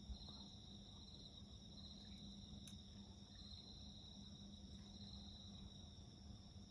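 Faint chorus of crickets and other insects trilling steadily, one high trill pulsing in repeated phrases about a second long. A single sharp crack from the campfire comes about three seconds in.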